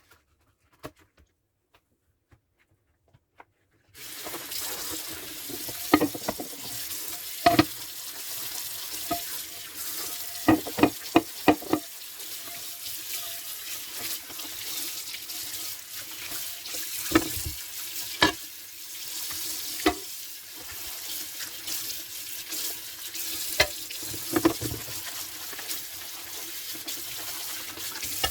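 A kitchen tap is turned on about four seconds in and runs steadily into the sink, with scattered sharp knocks and clinks of dishes being handled under the water.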